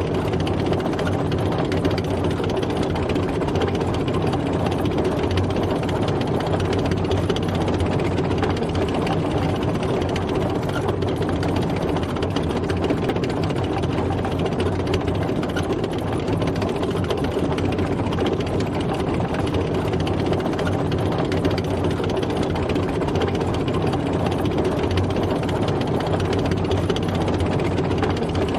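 Tank driving: a heavy engine running steadily with the clatter of tracks, at an even, unchanging level.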